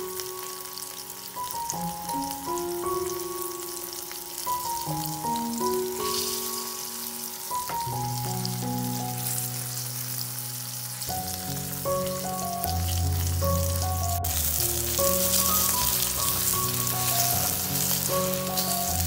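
Oil sizzling around starch-coated king oyster mushroom slices shallow-frying in a pan. The sizzle grows louder about six seconds in and again near fourteen seconds, with background music playing.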